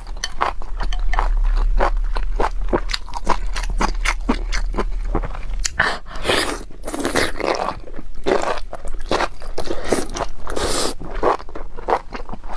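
Close-miked chewing of spicy enoki mushrooms: a dense run of quick wet, crunchy clicks, with a few longer rushing stretches in the second half, over a low steady hum.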